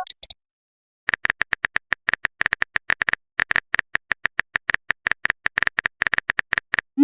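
Phone keyboard typing sound effect: a rapid run of short clicks, several a second, starting about a second in and going on until near the end. A couple of short high blips come at the very start.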